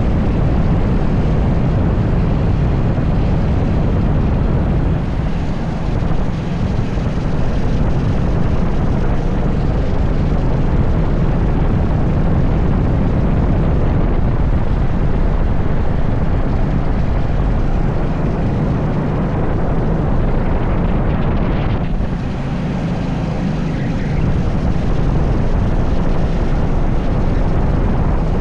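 80cc racing kart engine running hard, mixed with wind noise on the microphone; the engine sound dips briefly about six seconds in and again a little past twenty seconds.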